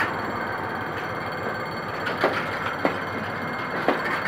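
Passenger coaches rolling past on the rails: a steady wheel-on-rail rumble, with three sharp clacks of wheels over the track in the second half.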